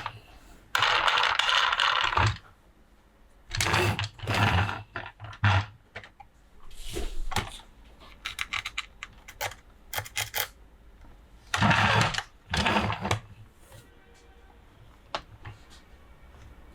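Plastic toys and their packaging being handled: several bursts of rustling and scraping, with many small clicks and taps of plastic parts in between.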